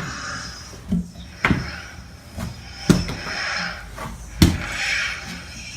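A run of sharp knocks or thumps, four of them at uneven intervals, with a breathy hissing noise between them.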